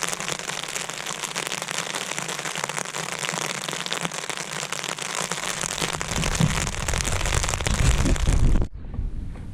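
Heavy rain falling on a tent, a dense steady hiss; from about six seconds in a low rumble builds underneath. Near the end it cuts off abruptly, leaving quieter wind buffeting the microphone.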